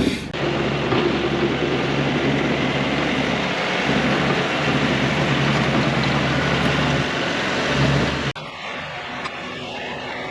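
Kioti NS6010 tractor's diesel engine running steadily as it works, pushing snow with a rear back blade. The sound cuts off abruptly about eight seconds in, leaving a quieter background.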